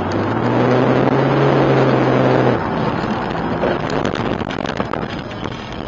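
Car engine running steadily over road noise; the engine note stops about two and a half seconds in, followed by quieter noise and a few sharp clicks.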